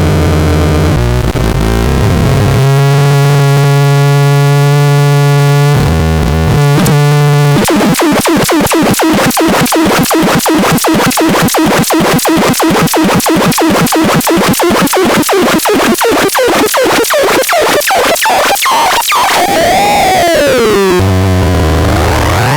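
Matraxon C1 synthesizer making harsh electronic noise tones. It holds a buzzing drone, then switches to a fast even pulsing of about five pulses a second, and near the end a whining pitch sweeps down and back up.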